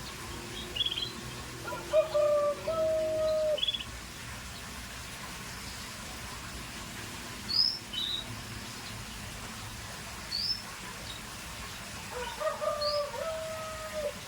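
Caged birds calling: several short high chirps spread through the clip, and twice, near the start and near the end, a lower two-part held call lasting about a second and a half. The chirps come from Scotch Fancy canaries.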